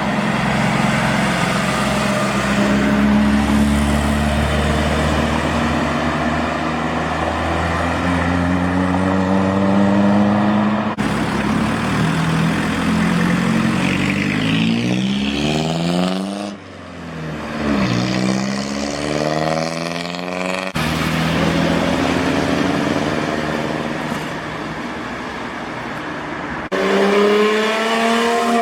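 Classic cars driving off one after another, their engines rising in pitch as they accelerate through the gears, with one car passing close by about halfway through. The sound changes abruptly several times, as separate clips of different cars follow each other.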